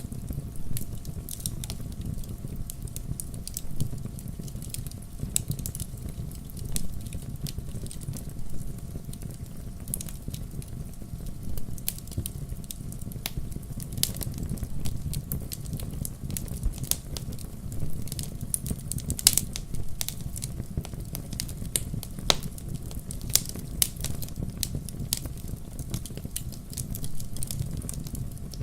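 Wood fire burning in a fireplace: logs crackling and popping with irregular sharp snaps over a low, steady rumble of flame.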